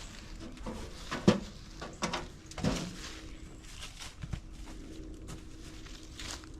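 A come-along and its straps being handled while rigging it to a fence: a few separate metal clanks and rattles, the loudest about a second in, then lighter clicks.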